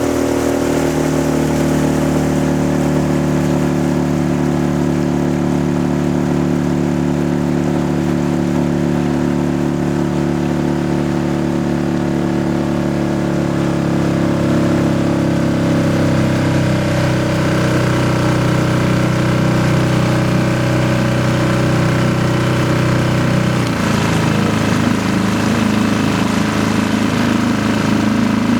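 An engine running steadily, its pitch shifting a few times as its speed changes, about a second in, around the middle and near the end.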